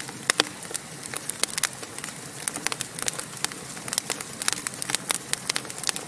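Wood fire crackling in a fireplace: irregular sharp pops and snaps over a soft, steady hiss of flames.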